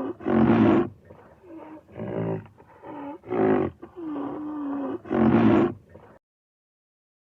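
A large animal calling over and over, long steady low-pitched calls alternating with louder, harsher roaring calls; the calling stops about six seconds in.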